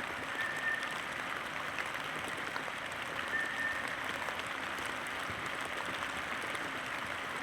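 Steady rushing of a fast-flowing forest brook. A short, high, steady whistled note, likely a bird, sounds twice over it, about three seconds apart.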